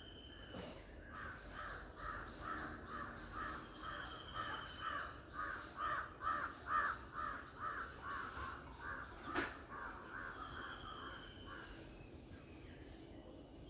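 A bird calling a long, evenly spaced run of harsh notes, a little over two a second, growing louder towards the middle and then fading away. A faint short whistle sounds twice, and there is a single sharp click about two-thirds of the way through.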